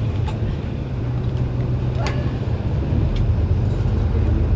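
MAN A91 bus engine running under way with a steady low drone that grows slightly louder after about three seconds. A few sharp clicks or rattles sound over it, the loudest about two seconds in.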